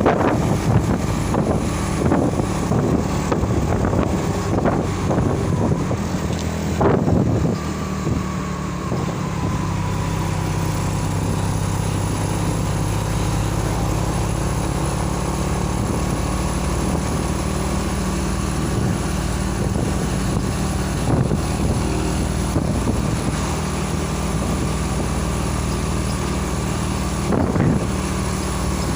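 A truck's engine runs steadily while driving, with a low, even drone. A few knocks and rattles come in the first several seconds, the sharpest about seven seconds in, and two more later.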